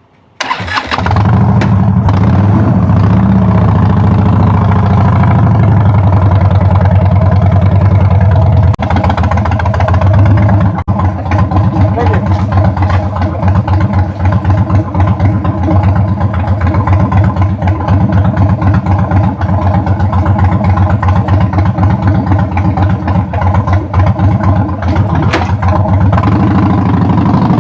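Harley-Davidson V-twin motorcycle engine starting up about half a second in, then running with a steady, rapid pulsing beat at low speed.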